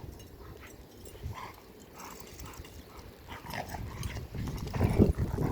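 Airedale terriers playing: scattered short dog sounds, quiet at first and getting louder and busier near the end.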